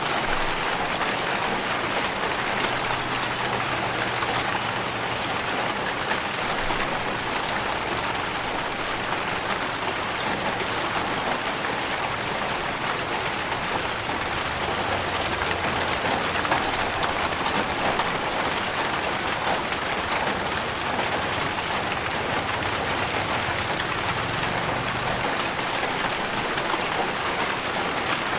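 Steady rain falling, a dense even hiss with the fine patter of individual drops striking a surface.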